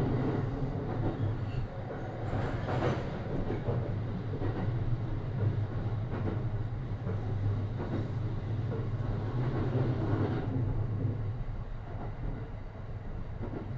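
Cabin running noise of a JR East E235 series 1000 Green car moving between stations: the steady low sound of wheels on the rails. It gets somewhat quieter over the last few seconds.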